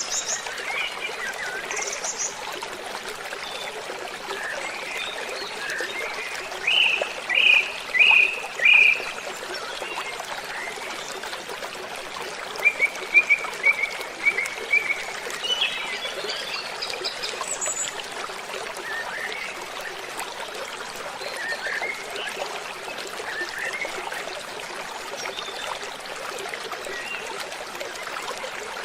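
Waterfall rushing steadily, with birds chirping over it in short bursts: four loud chirps a little before the middle and a quicker run of chirps soon after.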